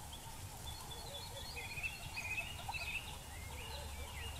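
Several wild birds calling in woodland: short chirps and whistles, with a run of quick repeated notes in the middle, over a low steady rumble.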